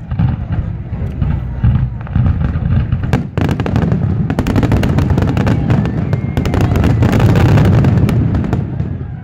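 Aerial fireworks display shells bursting in a dense barrage: a continuous low rumble of booms, with rapid sharp cracks piling up from about three seconds in and at their thickest around seven to eight seconds, then easing off.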